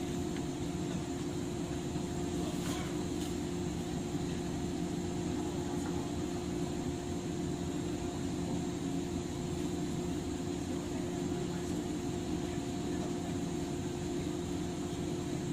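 Steady hum inside a stationary 103 series electric train car, from its onboard auxiliary equipment and ventilation, with no traction motor sound while the train stands after an emergency brake stop.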